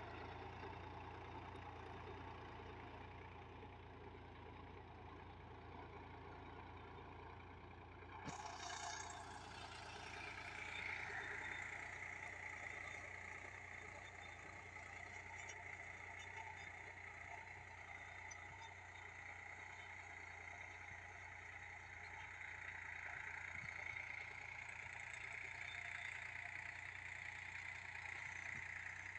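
Sonalika Tiger tractor's diesel engine running steadily. About eight seconds in, the sound changes abruptly and a higher whine rises and then holds, as the engine picks up revs.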